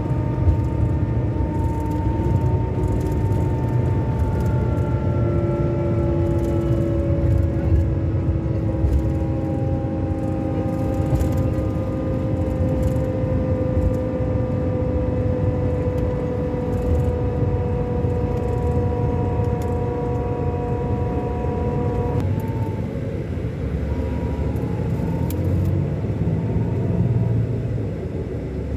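Scania K400 Euro 5 bus engine running under way: a steady low rumble with an engine tone that slowly falls in pitch, then breaks off and shifts about 22 seconds in.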